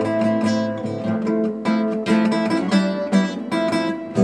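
Acoustic guitar strummed and plucked in an instrumental passage between sung lines of a Turkish song.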